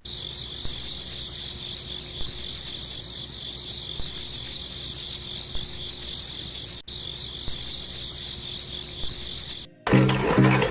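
Insects chirring steadily in a continuous high-pitched drone. About a second before the end it cuts off, and a louder, different sound takes over.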